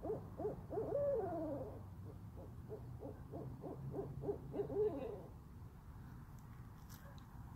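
Owls calling in a rapid run of short hoots, about four or five a second, broken twice by a longer, wavering, descending note; the calling stops about five seconds in.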